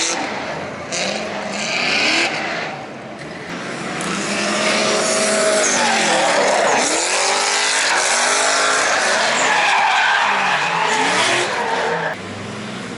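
Two drift cars running a tandem: their engines revving up and down with tyres squealing and skidding, then the sound drops away suddenly near the end.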